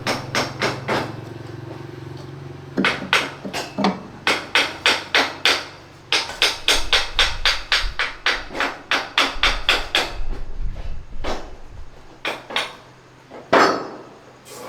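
Repeated hammer blows, about four a second, in runs with short pauses, then a few slower strikes near the end.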